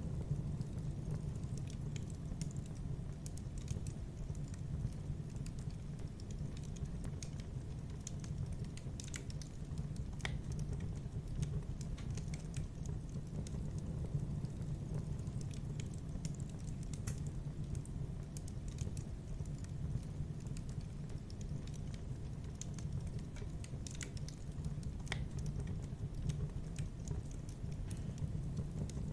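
Wood fire crackling in a fireplace: a steady low rumble with frequent small pops and snaps scattered throughout.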